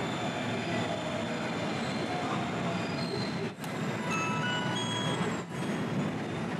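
JR Special Rapid Service commuter train pulling into the platform and slowing to a stop, with the rumble of the cars over the rails and short, thin high squealing tones from the wheels and brakes.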